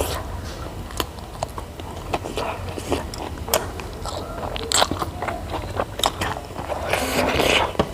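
Close-miked eating: a person biting and chewing food, with many small wet clicks and crunches, getting denser and louder near the end.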